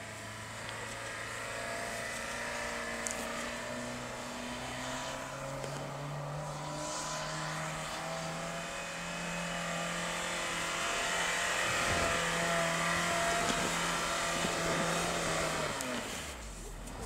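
Honda Fit 4WD's engine working under load as the car ploughs through deep snow: the revs climb about four seconds in, stay high and steady, then drop off near the end.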